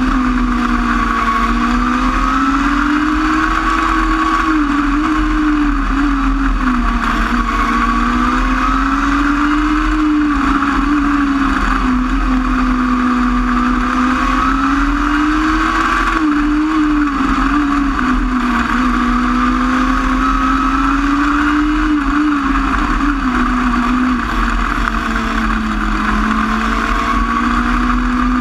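Micro sprint race car engine running at speed around a dirt oval, its pitch rising and falling smoothly every few seconds as it accelerates on the straights and backs off into the corners.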